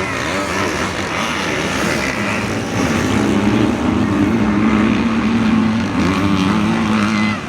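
Motocross bike engine running hard, getting louder and holding a steady high pitch from about three seconds in.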